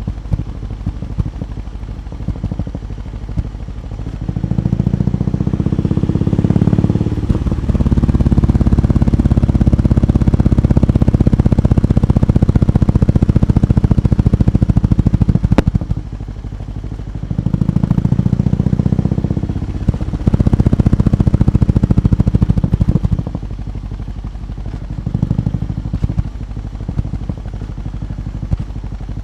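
BMW R18 B's 1,802 cc boxer twin engine idling, then revved: one long rev held for about ten seconds, two shorter revs, a quick blip, and back to idle.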